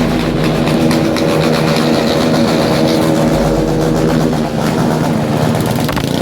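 Motorcycle engine revved and held at a steady pitch, dropping away near the end.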